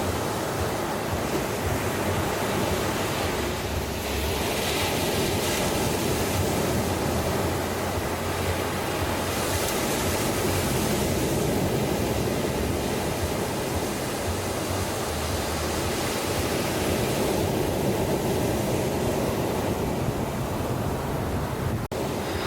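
Ocean surf washing steadily onto a beach, with a brief dropout near the end.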